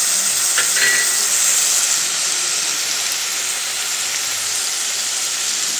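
Vegetables frying in hot oil in a kadhai: a steady sizzle, with a couple of faint clicks about a second in.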